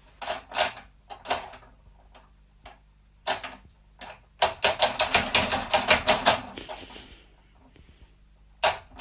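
A run of sharp tapping clicks, about six a second, for about two seconds in the middle, with a few scattered single clicks before it.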